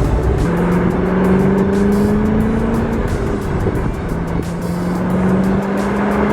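Corvette C6 V8 engine pulling under acceleration, its pitch climbing steadily, dropping at a gear change about three seconds in, then climbing again.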